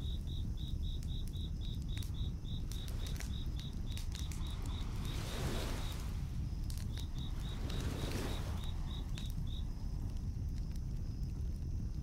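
Crickets chirping in a steady pulse of about four chirps a second, in two runs that stop a little before the end, over a steady low rumble. A campfire crackles with scattered small pops, and two soft swells of surf wash in partway through.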